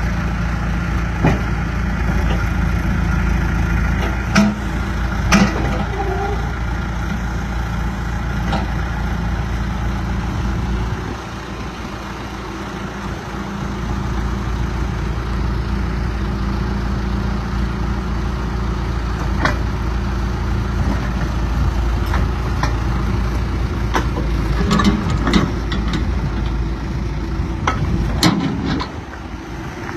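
John Deere 310G backhoe's diesel engine running steadily, with a few sharp knocks on top. The engine drops in level about a third of the way in, then comes back up.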